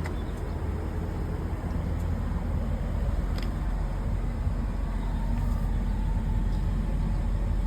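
Steady low rumble of a car, running or on the move, with a few faint clicks.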